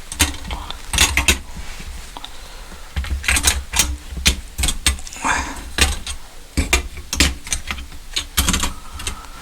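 Small metal parts being handled on a workbench: irregular clicks and clinks of metal on metal, in clusters.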